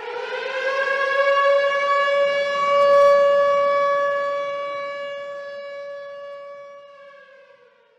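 One long siren-like wail: a single steady tone with many overtones that slides up in pitch as it starts, holds, then fades away and sags in pitch at the end.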